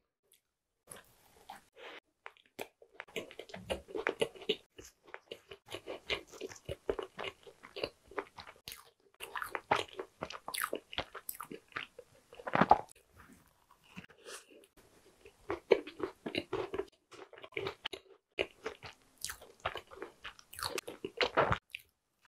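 Biting and chewing a brownie tart: irregular wet clicking mouth sounds, starting about a second in, with several louder bites, the loudest about 13 seconds in.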